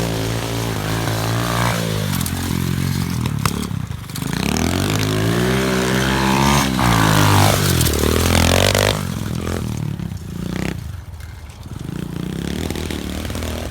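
SSR 125 pit bike's single-cylinder four-stroke engine revving up and down as the bike is ridden. It is loudest about two-thirds of the way through, then eases to a lower, steadier run, with a few sharp clatters from the bike along the way.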